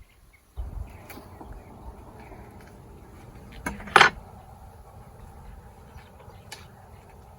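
Honeybees humming steadily around an open hive, with a few light clicks and one sharp knock about four seconds in as hive frames are pushed back together.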